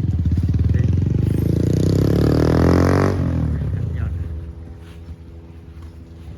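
Motorcycle engine revving up, its pitch climbing for about three seconds, then falling off suddenly and settling to a quieter, steady note.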